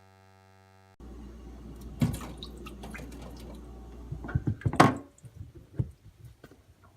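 Water splashing and dripping with knocks and clatter as a sharpening stone is handled: one sharp knock about two seconds in, then a quick run of knocks peaking near five seconds, fading to a few light clicks. A low steady hum sounds for the first second.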